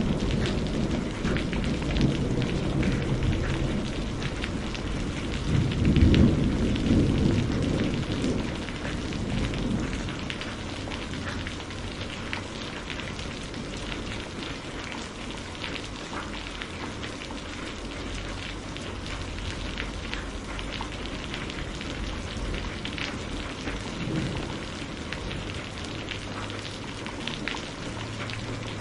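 Steady rain with a low roll of thunder that swells about six seconds in and fades by about ten seconds. Scattered sharp crackles of a wood fire sound throughout.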